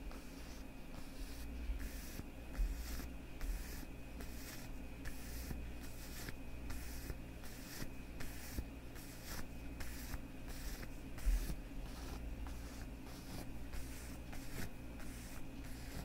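Leather gloves rubbed and squeezed together by the hands, a steady run of short swishing strokes about two or three a second.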